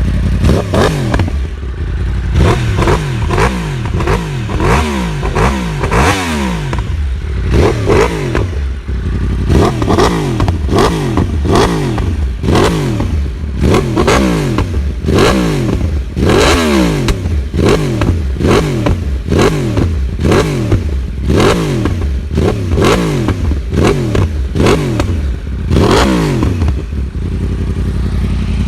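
Yamaha R1 inline-four sport-bike engine with an aftermarket exhaust, revved repeatedly in quick blips, about one a second, then settling back to a steady idle near the end.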